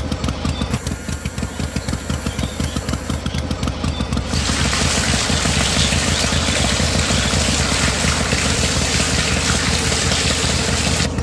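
Small engine of a DIY miniature tractor running with a fast, even knocking beat. About four seconds in, a loud steady hiss joins it.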